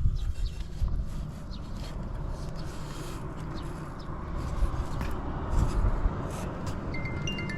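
Early Honda Motra's 49cc four-stroke single-cylinder engine idling steadily and evenly, with light clicks over the running; the engine is described as quiet with no abnormal noise. Chime music comes in near the end.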